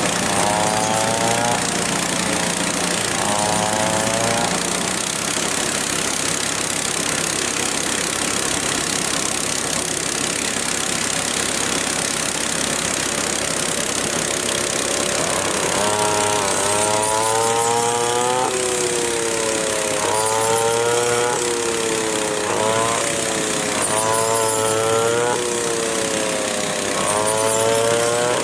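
Small engine running under a steady mechanical noise, its pitch dipping and rising again and again every second or two, as if it is loaded and then released.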